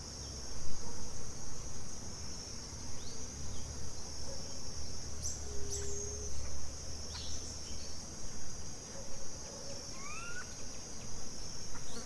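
Steady high-pitched insect chorus of crickets, with scattered short calls over it, including a quick rising chirp about ten seconds in.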